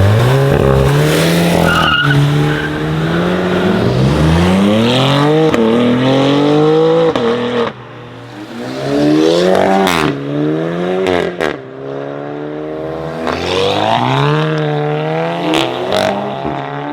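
Performance car accelerating hard through the gears: the engine note climbs, drops back at each upshift, then climbs again. It dips about three-quarters of a second before the halfway point, then pulls again, with several sharp cracks in the second half.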